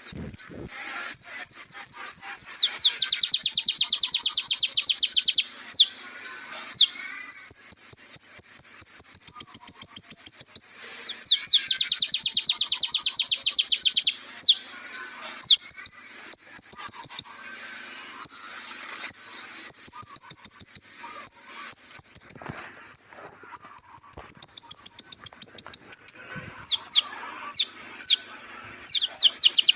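Kolibri ninja sunbird singing: bursts of fast, high-pitched trills lasting a few seconds each, broken by quick down-slurred notes.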